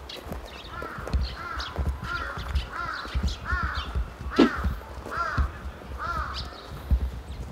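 Birds calling: a run of about ten short calls, each rising then falling in pitch, coming every half second or so. There is one sharp, louder sound about halfway through and a low rumble underneath.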